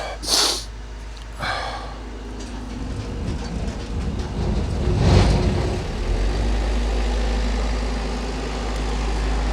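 A site generator engine starting up. Clicks at the start, then a build-up to a loud catch about five seconds in, after which it settles into steady low running.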